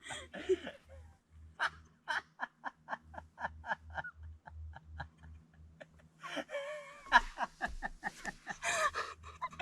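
Chicken clucking in a quick run of short, evenly spaced notes, about three or four a second. In the last three seconds there is a louder, rougher stretch of sound.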